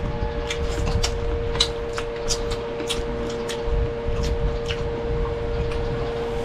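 Close-miked chewing and lip smacks of someone eating fried tilapia by hand: a run of sharp wet clicks, thickest in the first few seconds and then sparser, over a steady hum.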